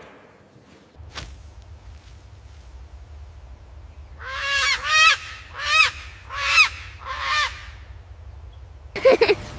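An animal calling five times in quick succession with loud, honking calls, each rising and falling in pitch. A short sharp sound comes about a second in, and a brief loud burst near the end.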